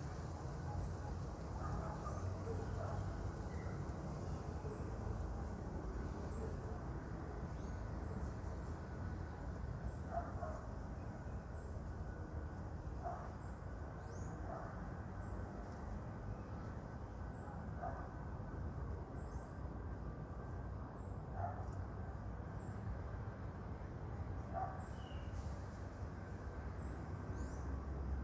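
Animal calls: short high chirps repeating about once a second, with a few lower, shorter calls every few seconds, over a steady low rumble.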